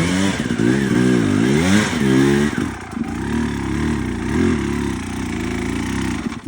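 Enduro motorcycle engine revved in repeated blips, its pitch rising and falling, then running lower and steadier with small rises, and cutting off suddenly near the end.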